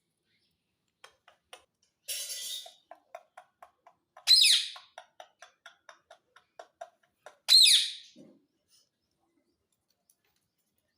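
A parrot giving two loud, harsh screeches, about four and seven and a half seconds in, after a shorter rough squawk about two seconds in. Between the screeches runs a string of soft quick clicking chirps, about four a second.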